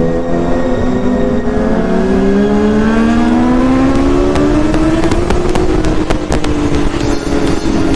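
Sportbike inline-four engine accelerating hard, its pitch climbing for about four seconds, then easing off and slowly dropping.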